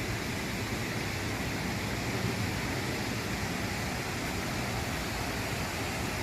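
Steady rush of water pouring over a dam and waterfall, an even noise with no breaks.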